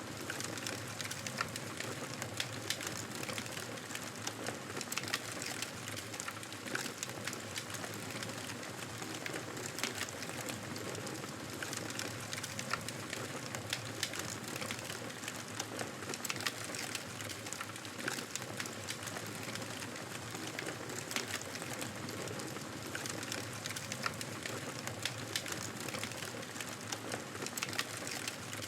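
Wood campfire burning: a steady hiss with frequent sharp pops and crackles at irregular moments.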